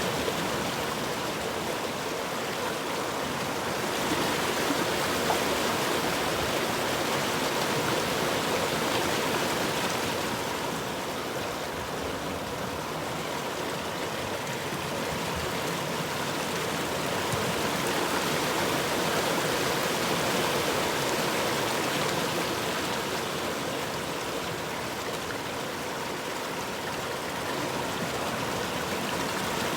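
A river or stream of rushing water flowing steadily, a dense even rush that swells and eases gently every several seconds.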